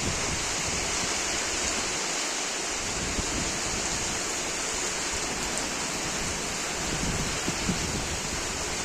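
Heavy rain pouring down, a steady, even hiss of downpour.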